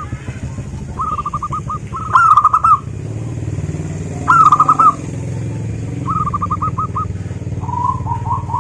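Zebra dove (perkutut) singing its staccato cooing song: short phrases of rapid, repeated notes, about five phrases spaced a second or two apart, two of them louder. A steady low hum runs underneath.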